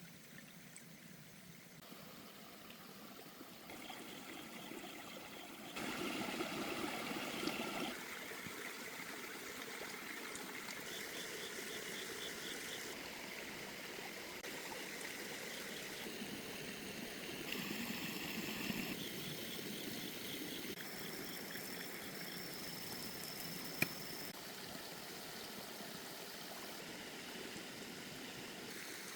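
Stream water running and trickling, its loudness stepping up and down abruptly several times as the shots change. Faint, fast, regular chirping comes and goes at times, and there is a single sharp click near the end.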